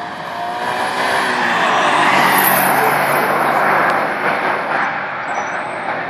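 Stock 2005 Subaru Impreza WRX STI's turbocharged flat-four engine under power as the car drives past at speed. The sound grows louder as the car approaches, is loudest for a couple of seconds in the middle, then fades as it pulls away.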